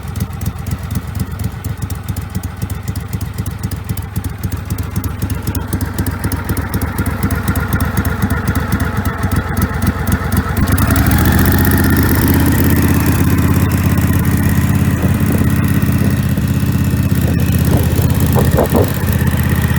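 1999 Craftsman garden tractor engine running at a low, pulsing idle, then throttled up about eleven seconds in to a louder, steady, faster run.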